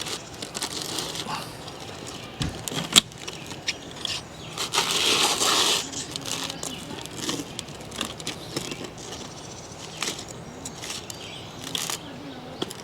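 Montreal steak seasoning being put on food: scattered clicks and short gritty rattles from the container, with one longer gritty burst about five seconds in.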